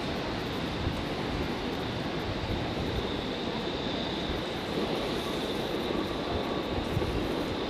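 0 Series Shinkansen train moving at the platform: a steady running noise with a faint high whine.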